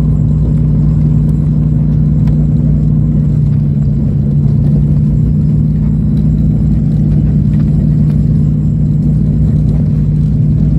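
Steady, loud drone of a Convair CV-340's radial piston engines and propellers heard inside the passenger cabin, with a low rumble underneath.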